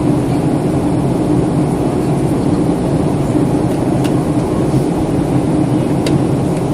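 Steady cabin noise of a jet airliner during descent: engine drone and airflow heard from inside the passenger cabin, with a constant low hum. A couple of faint clicks are heard partway through.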